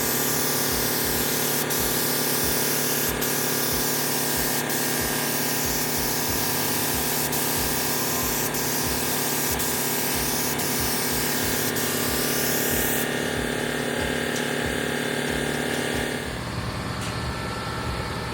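HVLP paint spray gun hissing steadily as paint is sprayed at low pressure, over a steady machine hum. About two-thirds of the way through the spray hiss cuts off, and a few seconds later the hum drops and changes.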